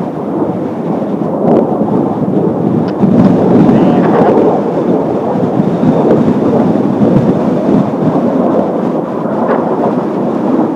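Kawasaki T-4 jet trainers' turbofan engines making a loud, rumbling roar as the formation flies past, growing louder about three seconds in.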